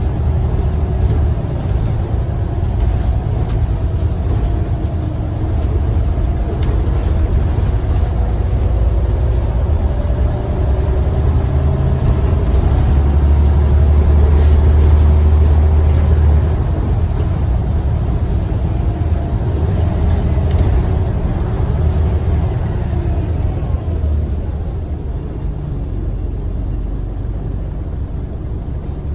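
Scania L94UB single-deck bus's diesel engine running under way, with a strong low rumble and an engine note that rises and falls. The sound is loudest about halfway through.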